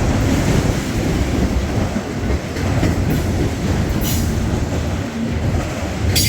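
Freight train rolling past, its wheels clattering and rumbling over the rails, with a few brief high-pitched wheel squeals, the sharpest near the end.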